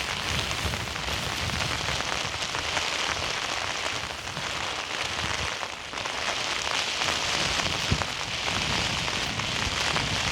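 Heavy rain falling on a tent: a steady, dense hiss of many small drop ticks, with one sharper drop about eight seconds in.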